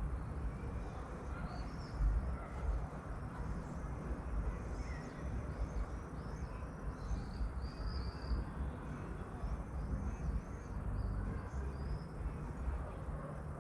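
Small songbirds calling in short, repeated chirps over a steady low rumble.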